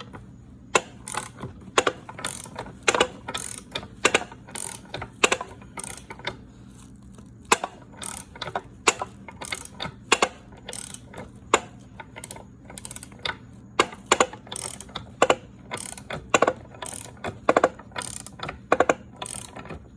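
Ratchet wrench clicking in short back-and-forth strokes as it turns the nut of a crankshaft installer tool, drawing a new crankshaft into the crankcase bearing. The clicks come in quick groups about once a second, with a short pause a third of the way through.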